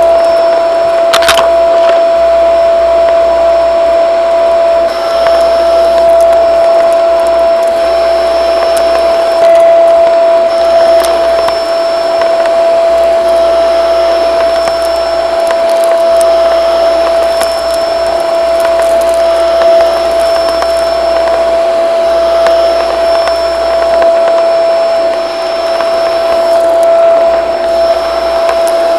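Shark vacuum cleaner running steadily with a constant high motor whine and rushing air. There is a sharp click about a second in and a few faint ticks from debris being picked up.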